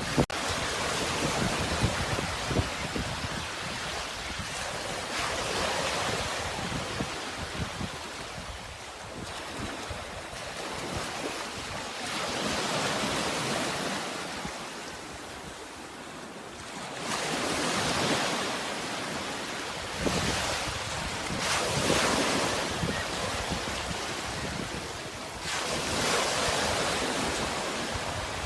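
Sea waves washing onto the shore, each wave swelling and fading away every few seconds.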